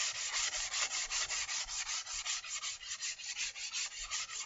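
Sargent block plane's sole being lapped flat on 120-grit sandpaper: a steady rasping scrape in quick back-and-forth strokes, about five a second, as the high spots of the sole are ground down.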